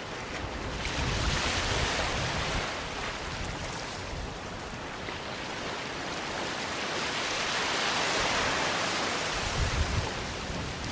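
Sea waves washing up on a sandy beach: a steady hiss of surf that swells about a second in and again around seven to nine seconds in, with uneven low rumbling near the end.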